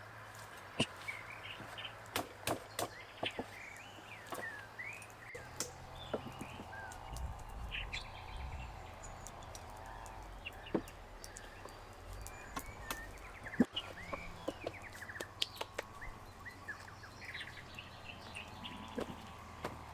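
Small birds chirping repeatedly, with scattered sharp clicks and taps throughout; the loudest is a single sharp knock about two-thirds of the way through.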